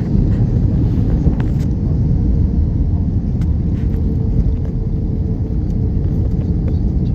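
Steady, loud, low rumble inside the cabin of an Airbus A321-231 with IAE V2533-A5 engines, the mix of engine and airflow noise heard from a passenger seat. A faint steady hum runs underneath, and a few light clicks are scattered through it.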